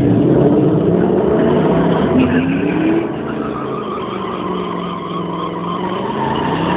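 Supercharged 2018 Ford Mustang's engine running at the drag strip starting line, revved up in pitch briefly about two seconds in while the car is held in place before launch.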